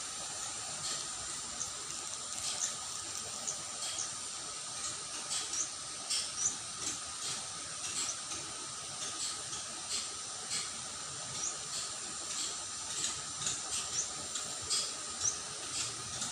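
Rural outdoor ambience: a steady hiss with a faint steady high tone, and short, high chirps at irregular intervals.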